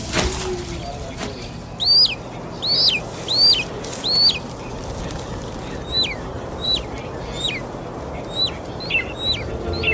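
A bird calling: short high notes that each drop sharply in pitch, four loud ones a little under a second apart, then a string of fainter, quicker ones.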